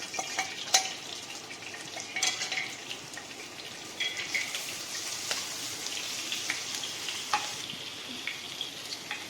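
Ginger-garlic paste sizzling in hot oil in a pan, a steady hiss, with scattered clicks of a spoon against the pan as it is stirred.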